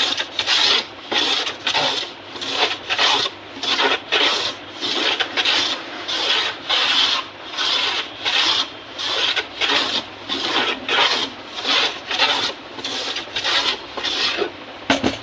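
Repeated strokes of an edged hand tool shaving teak wood, about three strokes every two seconds, levelling the high spots on harmonium keys. A sharp click near the end.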